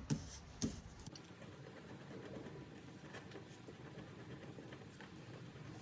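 Faint scratching of a scratch tool rubbing off the coating on a paper scratch-off savings card, with a couple of light taps near the start.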